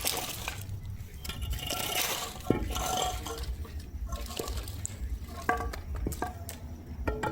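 Liquid being poured or splashing, with scattered small knocks and clicks.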